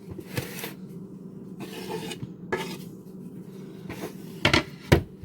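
Chopped tomatoes being scraped off a cutting board into a salad bowl: several short scrapes and clatters, then two sharp knocks about half a second apart near the end.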